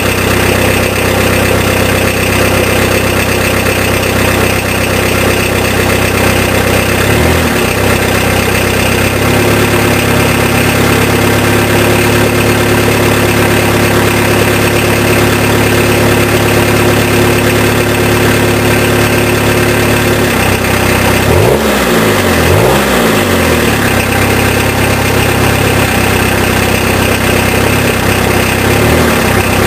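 Peugeot 306 turbo-diesel engine with a straight-through exhaust idling soon after a cold start. Its idle steps up slightly about eight seconds in. A little past twenty seconds it is revved briefly twice, then settles back to idle.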